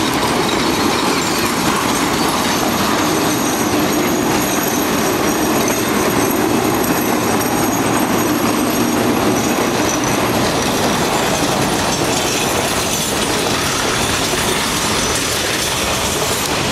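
Train running along the track: a steady rumble with wheels rattling on the rails and faint high wheel squeal.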